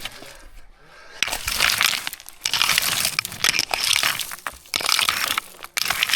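Gravel and stones crunching and scraping in repeated rough bursts, starting about a second in.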